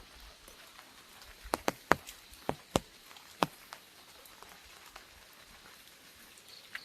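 Raindrops striking an umbrella overhead: a cluster of about six sharp, irregular taps in the middle, over a faint steady hiss of light rain.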